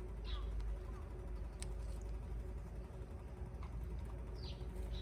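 A few short bird chirps over a steady low background rumble, with a single sharp click about one and a half seconds in.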